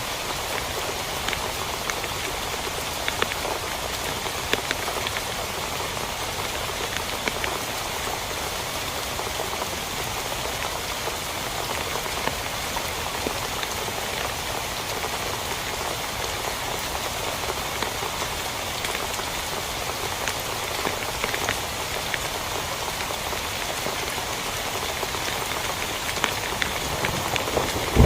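Steady rain falling on a tent, with scattered single drops hitting a little louder.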